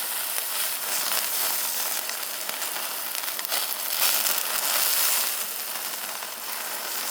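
Meat sizzling on a grill over a wood fire: a continuous high hiss that swells louder about four to five seconds in.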